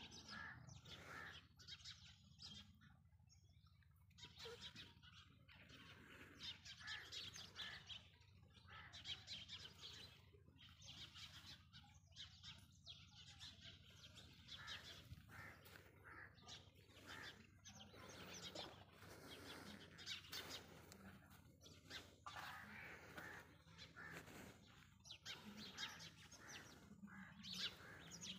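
Faint chirping of birds, many short irregular calls, over a low steady rumble.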